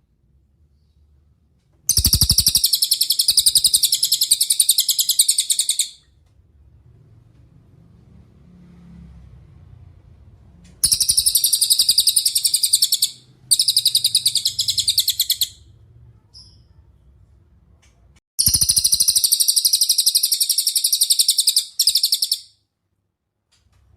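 Cililin songbird singing three rapid, high-pitched trills of about four seconds each, with short pauses between them; the second trill breaks briefly in the middle.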